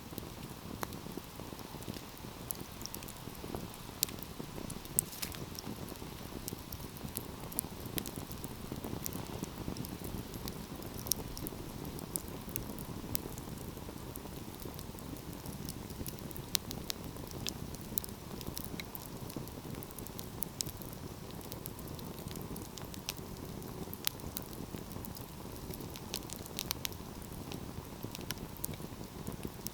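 Wood fire burning steadily with a low rumble, crackling and popping irregularly, with sharp snaps scattered throughout.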